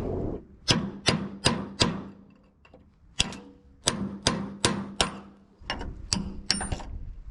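Hammer blows on the metal of an old aluminium mast base: four quick strikes, a pause of about a second, then a longer run of about ten, roughly three a second.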